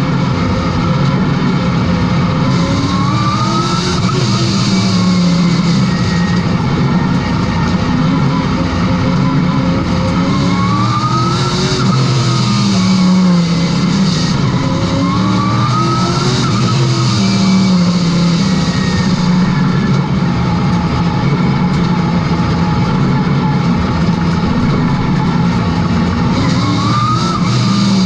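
Late model race car engine lapping an oval: the engine note climbs as it accelerates, then drops as it lifts off, over and over every few seconds, with a steady hiss of tyre and wind noise throughout.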